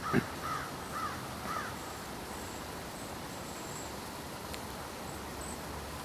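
A short low thump just at the start, then a bird calling four times in quick succession, each call rising and falling in pitch, about half a second apart. Faint thin high notes follow over steady outdoor background noise.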